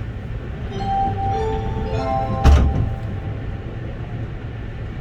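Inside a Haruka limited express train: a steady low rumble with a short melody of clear chime-like tones in the first half, and a single thud about halfway through.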